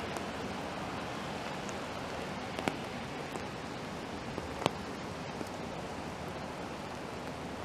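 Steady hiss of rain in a city street, with two sharp ticks, one about three seconds in and a louder one near five seconds.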